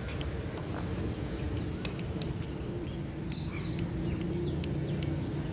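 Faint, scattered short bird chirps and clicks over a steady low background rumble.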